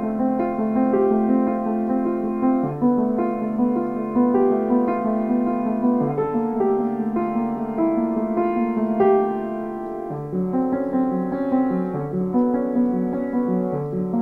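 Piano music: a melody over chords that change every second or so. About ten seconds in, the bass turns to quicker repeated notes.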